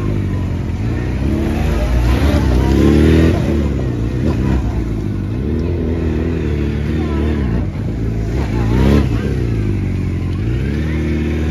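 Police motorcycle engines revving up and dropping back again and again as the bikes are ridden slowly and tightly around cones. The pitch rises and falls every second or two.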